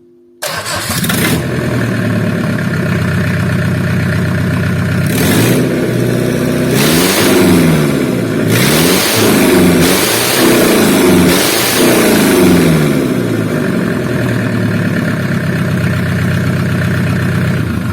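2.5-litre naturally aspirated diesel van engine of the Fiat Ducato / Iveco Daily / Renault Trafic type running on test: it comes in suddenly about half a second in and runs steadily. In the middle it is revved up and back down several times, then settles back to an even idle, running well.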